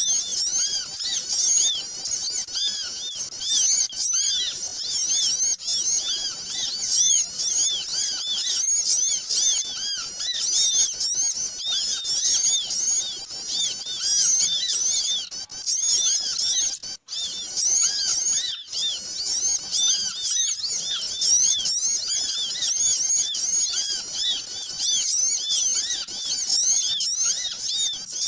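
Many small birds chirping at once, a dense, noisy chorus of short, high, overlapping chirps with no break, used as a lure call to draw small birds in.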